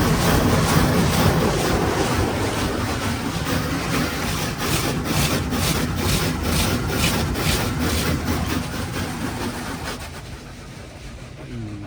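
Futura Impulse touchless car wash spraying water onto the car, heard from inside the cabin: a loud hiss of spray drumming on the body that pulses about three times a second through the middle, then fades away near the end as the spray moves off.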